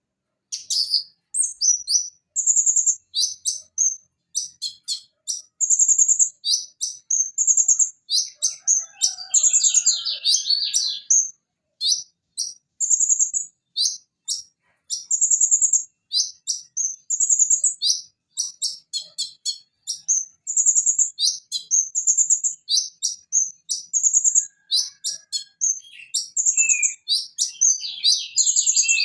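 Van Hasselt's sunbird (konin, Leptocoma sperata) singing a long, rapid run of high, sharp chirps and trills. The song starts about half a second in.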